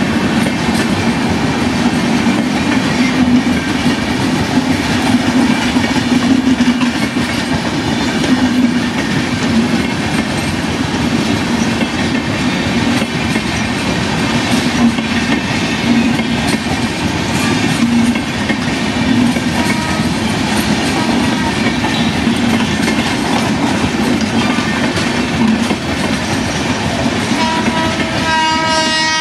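Passenger coaches rolling past close by with a steady rumble and rail clatter. Near the end a WAP-4 electric locomotive's horn starts to sound.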